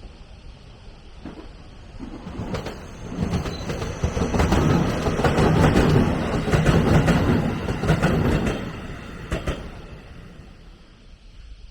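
A train passing by: its running noise builds from about two seconds in, is loudest in the middle with a rapid series of wheel clicks over the rails, and fades away near the end.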